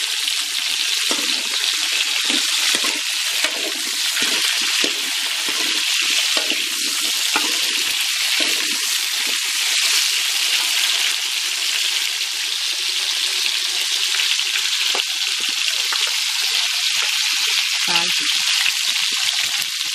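Sliced green mango frying in a metal wok, a loud steady sizzle, with a steel spoon scraping and stirring the pieces against the pan. A short knock near the end.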